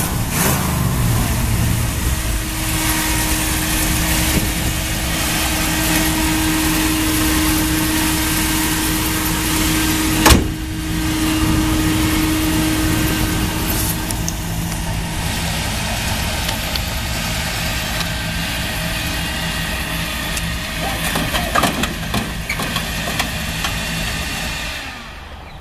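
1961 Chevrolet Impala's V8 engine running steadily, with a steady whine over roughly the first half and one sharp click about ten seconds in. The sound fades near the end.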